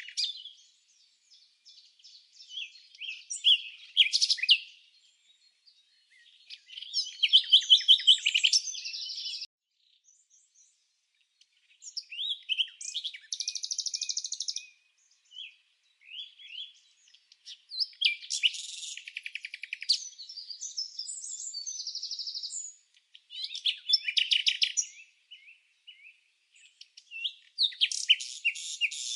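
Songbirds chirping and trilling in bouts of a second or two, with short pauses between them.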